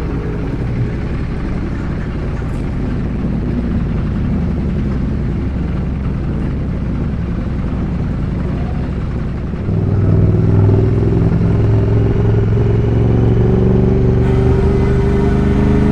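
Ducati Multistrada 1200S's L-twin engine running on the move, with road and wind noise. About two-thirds of the way through it gets louder and its note climbs slowly as the bike pulls harder.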